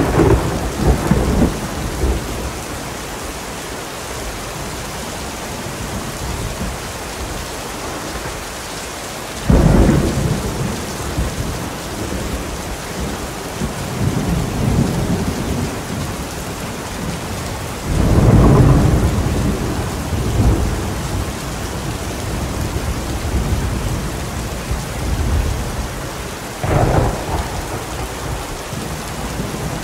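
Thunderstorm: steady heavy rain with four claps of thunder, each starting suddenly and rolling away over a few seconds, spaced roughly every nine seconds.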